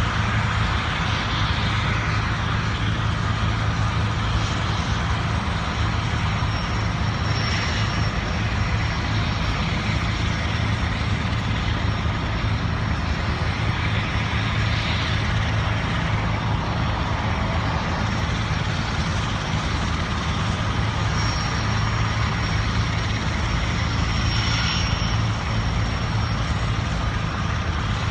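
Helicopters running, a loud, steady engine and rotor drone with a thin high whine that comes and goes.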